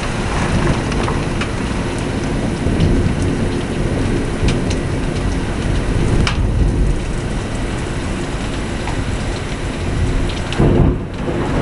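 Heavy rain pouring in a severe thunderstorm, with a continuous low rumble of thunder that swells louder near the end. A few sharp taps of drops striking a surface close by stand out.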